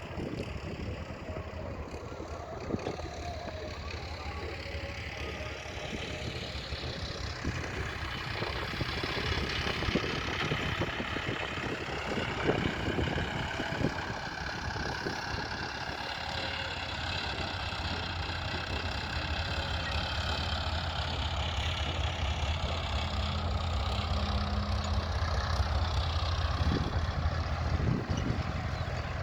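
Tractor engine running continuously during pond excavation, its pitch rising and falling gently as the load changes, with a steady low hum and growing gradually louder.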